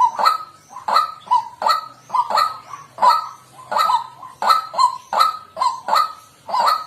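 White-breasted waterhen calling: a loud, unbroken series of harsh, repeated 'kwak' notes, about two to three a second.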